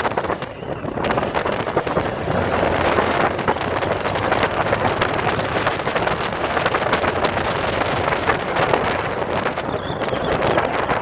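Motorcycle engine running on the move, mixed with wind buffeting the microphone; the noise dips briefly about half a second in.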